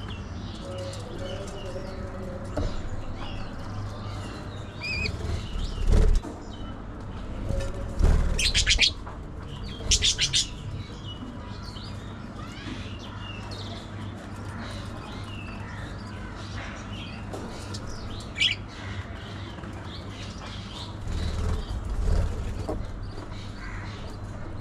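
Pet budgies chirping and chattering in short high notes, with a few louder bouts of wing flapping and two sharp shrill calls near the middle, over a low steady hum.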